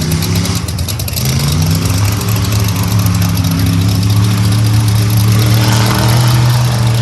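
Rally truck's engine under hard acceleration: its note climbs about a second in, then holds high and steady at full throttle, with a rush of hiss near the end.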